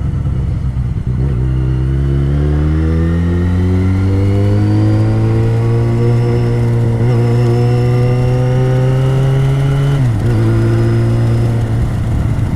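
Yamaha XJ6's 600cc inline-four engine on the move: after a low rumble, its pitch climbs steadily for several seconds as the bike accelerates, then holds steady. About ten seconds in the pitch drops sharply and runs on lower.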